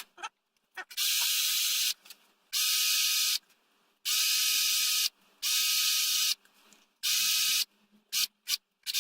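Electric drill with a large bit boring a hole into a wooden pipe bowl, run in repeated bursts of about a second with short pauses between them.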